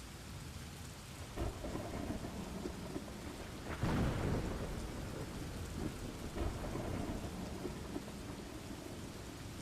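Steady rain with thunder. A louder rumble of thunder swells up about four seconds in and dies away over the next second or two.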